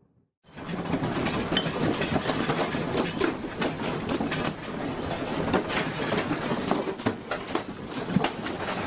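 A room shaking in an earthquake: a steady rumble filled with many sharp knocks and clatters of rattling furniture, shelves and the building itself. It starts abruptly about half a second in.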